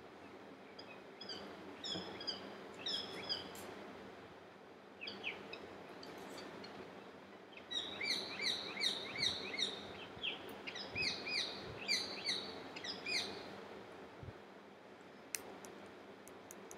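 A bird chirping, picked up through the lecturer's microphone: runs of quick, repeated short chirps, loudest from about eight to thirteen seconds in, over a faint steady hiss. A sharp click comes near the end.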